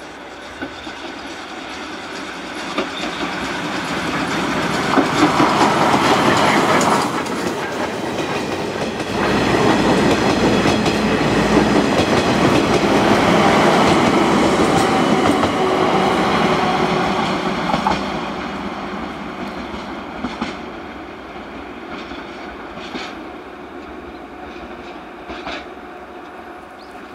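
Steam-hauled passenger train, led by steam locomotive 58654 with a DE10 diesel locomotive at the rear, running through a station with wheels clacking over rail joints. It grows louder as it approaches, is loudest for several seconds in the middle as it passes, and fades away over the last ten seconds or so.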